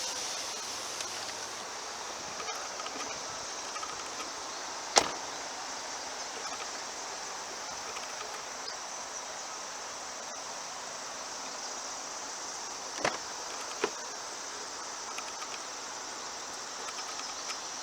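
Steady high-pitched insect chirring in the background, with one sharp loud click about five seconds in and two more clicks close together near the end.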